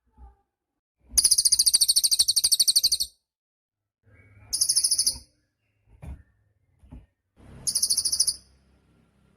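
A cililin songbird singing: three fast, high trills of rapid repeated notes, the first about two seconds long and the next two shorter. There are a few faint low knocks between them.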